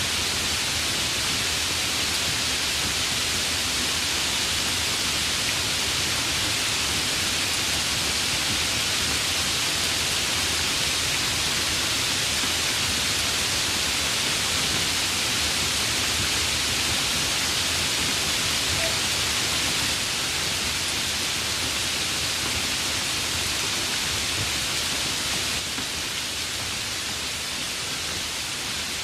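Steady rain: an even, unbroken hiss with no separate drops standing out, which drops slightly in level about two-thirds of the way through and again near the end.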